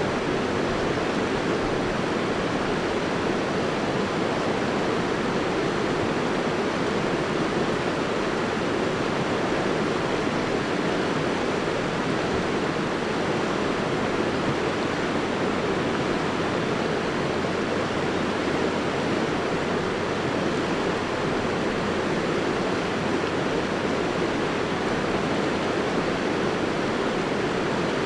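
A river rushing steadily, an even wash of flowing water with no breaks.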